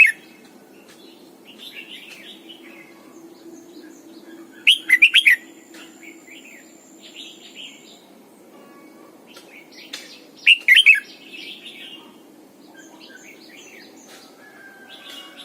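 Red-whiskered bulbul singing: two loud, quick warbled phrases about six seconds apart, with softer chirping phrases in between, over a faint steady hum.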